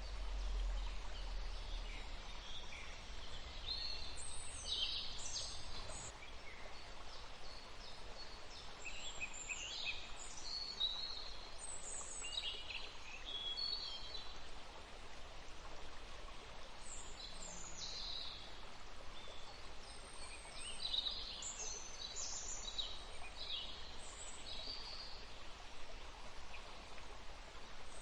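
Songbirds chirping and trilling in short high-pitched phrases, several overlapping at times, over a steady outdoor background hiss. A low rumble sits under the first couple of seconds.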